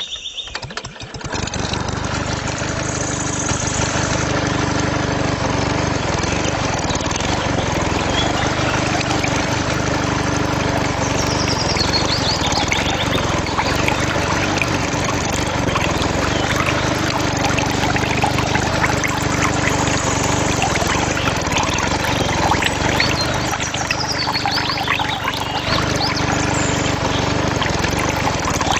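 Mini diesel engine running steadily as it drives a water pump, with water gushing and splashing from the outlet. It starts about a second in.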